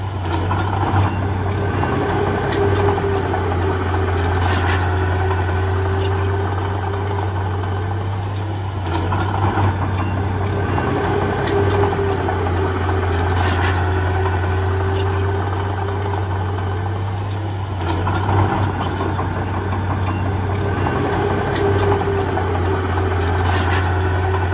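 Komatsu D31P bulldozer's diesel engine running steadily, with the load swelling and easing in cycles about eight seconds long. Short clanks are scattered through it.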